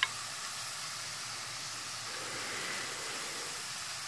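Potato slices sizzling in hot oil in a Dutch oven, a steady hiss with a brief click at the very start; the oil might even be a little bit too hot.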